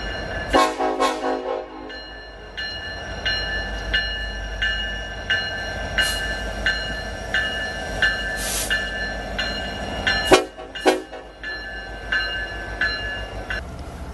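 Diesel locomotive horn sounding two short blasts, about half a second in and again about ten seconds in, over the low rumble of the train. A bell rings steadily throughout, struck roughly every 0.6 seconds.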